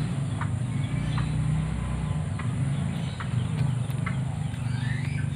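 Outdoor rural ambience: a steady high insect drone with short chirps about once a second, over a loud low rumble.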